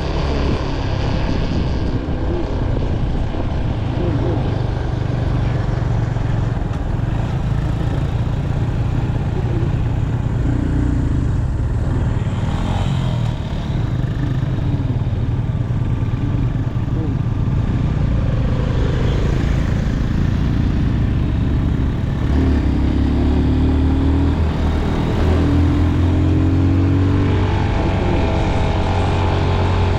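Motorcycle engine running while riding, a steady low drone; from about 22 seconds in, its pitch steps up and down as the revs change.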